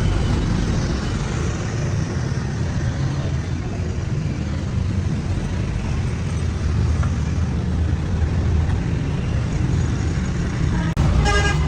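Steady rumble of vehicle engines and road traffic. About eleven seconds in it cuts off abruptly.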